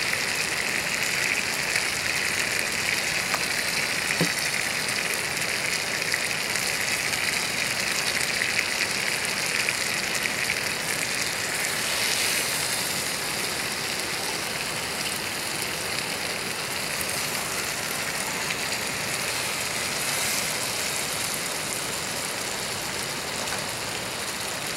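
Steak and onions sizzling steadily in a skillet over a canister gas stove.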